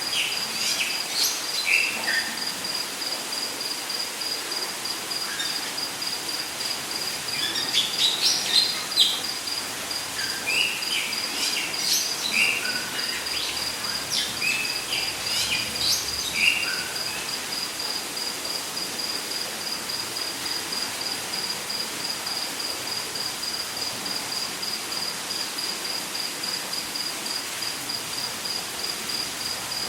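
Rainforest ambience: an insect trill pulsing fast and steadily at a high pitch over a constant hiss, with scattered chirping bird calls through roughly the first half that die away after about sixteen seconds.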